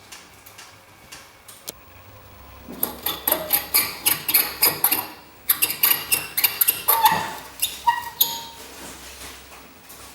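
A quick run of sharp clicks and knocks, several a second, starting a few seconds in and lasting about six seconds, with short squeaks near the end.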